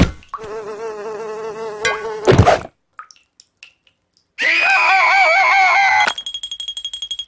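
Buzzing tones with a wobbling pitch, like a flying insect, in two stretches with about two seconds of silence between them, the second louder. The buzz ends in a fast stutter of pulses under a high steady beep.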